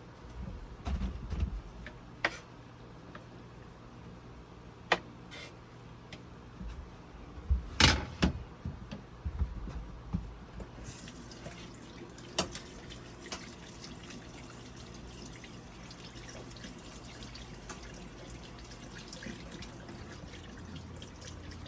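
A few knocks and clicks of handling, then about eleven seconds in a kitchen tap starts running into the sink, rinsing the cut-up chicken in a basket.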